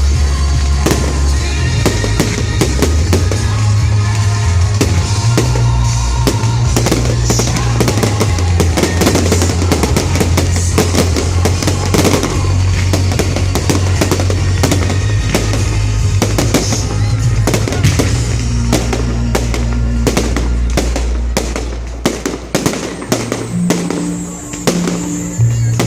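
Fireworks exploding in dense rapid volleys of bangs and crackles over loud music with a heavy bass line from the show's soundtrack. The bursts thin out about 21 seconds in to scattered single bangs.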